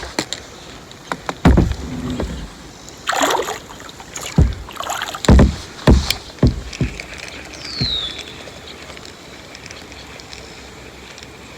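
Kayak being paddled: irregular knocks and thumps of the paddle against the hull and water splashing off the blade, busiest in the first two-thirds.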